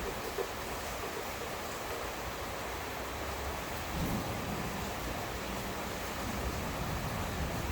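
Heavy rain falling steadily during a thunderstorm, with a low rumble of thunder that grows stronger about four seconds in.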